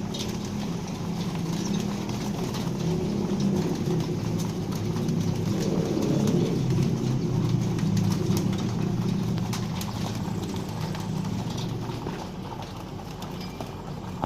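A flock of racing pigeons cooing, many low coos overlapping into a continuous chorus that swells in the middle, with scattered light clicks.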